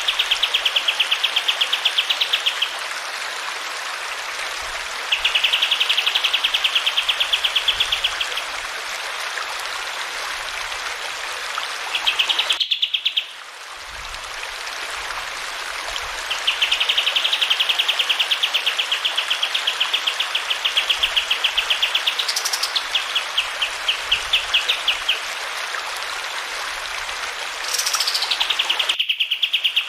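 Kapas tembak (bulbul) song: long, rapid rolling trills of fast repeated high notes, coming in several runs with pauses between them, over a steady background of running water. The sound cuts out briefly twice, once about halfway through and once near the end.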